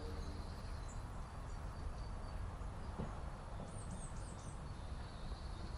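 Outdoor ambience: faint birds chirping over a steady low rumble, with a short run of high chirps about four seconds in.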